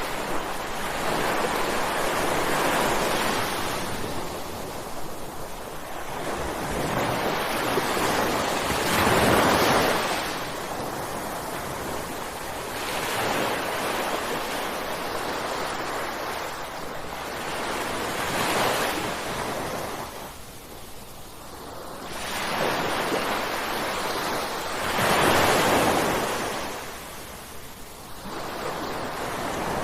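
Ocean waves breaking on a shore, the surf swelling and ebbing, with stronger breakers about a third of the way in, past the middle and near the end.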